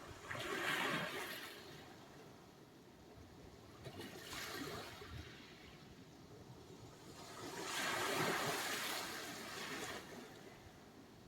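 Sea surf: waves breaking and washing up the shore in three surges. The first comes about half a second in, a shorter one around four seconds, and a longer one from about seven and a half to ten seconds, with a quieter wash between them.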